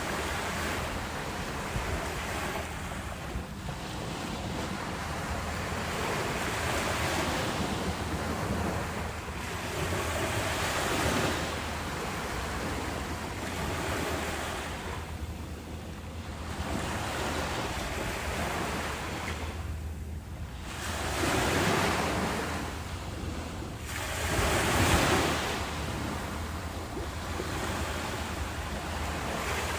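Ocean waves breaking and washing in, each swell rising and falling every few seconds over a steady low rumble, with some wind on the microphone.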